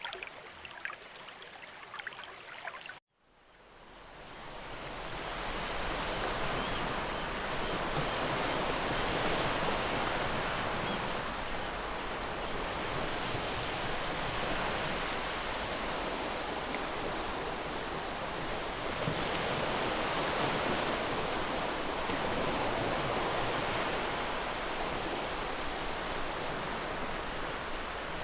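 A trickling stream cuts off about three seconds in, and ocean surf fades in, washing steadily with slow, gentle swells.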